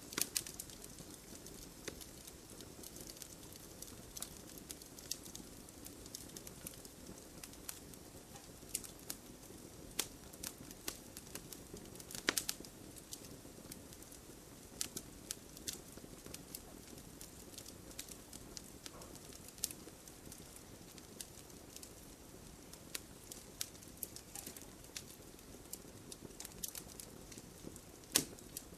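Wood campfire burning, with a low steady rustle under frequent irregular crackles and snaps and a few louder pops.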